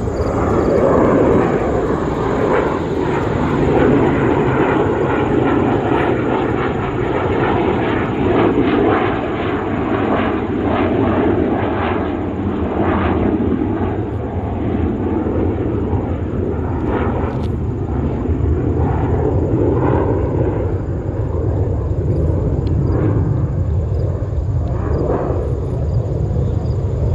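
Jet noise from a B-2 Spirit's four General Electric F118 turbofan engines as the flying-wing bomber passes overhead: a steady, heavy rumble that holds strong throughout.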